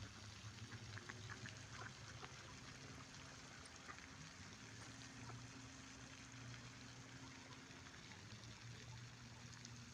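Near silence: a faint, steady hiss of outdoor ambience with a low steady hum and a few faint ticks.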